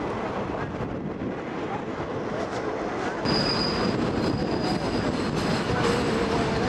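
Local passenger train on the State Railway of Thailand running, heard from aboard. About three seconds in it gets louder and a steady high metallic squeal sets in as the train runs into a small country station.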